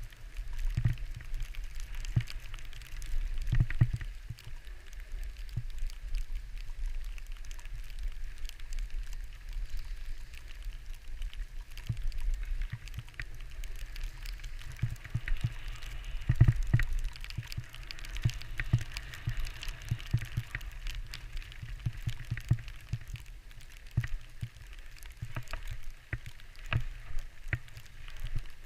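Skis sliding on snow with wind buffeting the microphone: a steady hiss of the skis over an uneven low rumble with frequent bumps.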